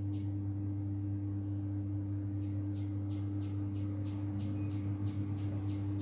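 A bird chirping in quick runs of short, falling notes, about four a second, with a second run starting a little over two seconds in. A steady low hum runs underneath.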